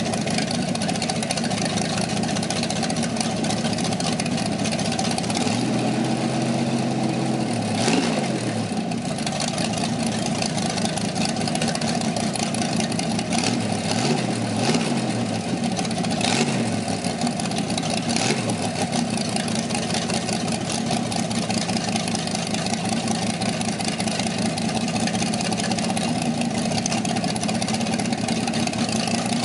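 Chevrolet 327 small-block V8 from a 1967 Corvette running on an engine stand through open headers, idling with several quick throttle blips between about six and eighteen seconds in.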